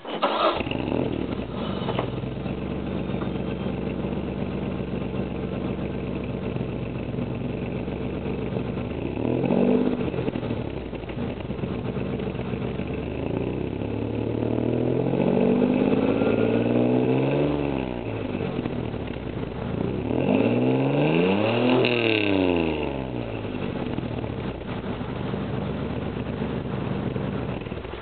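1992 Ford Probe's 3.0 Vulcan V6 through a Pacesetter exhaust starting and settling into a steady idle, then revved three times: a quick blip about ten seconds in, a longer climb and fall around fifteen seconds, and a sharp rev just past twenty seconds, before dropping back to idle and cutting off at the end.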